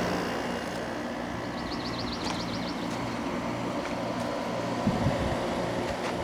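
Vintage Emerson Quiet Kool window air conditioner running with its grille off: a steady compressor hum under the rush of the Emerson fan motor's air. A brief run of fast high ticks comes about two seconds in, and a couple of low thumps near the end.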